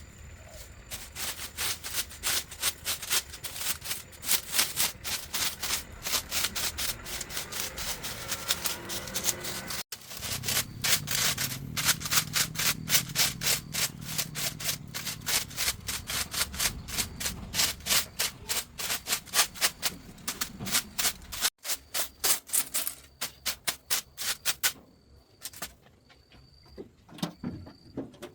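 Rapid, even back-and-forth abrasive scraping, several strokes a second, like hand sanding or rubbing down a part. It breaks off abruptly twice and thins to scattered strokes near the end.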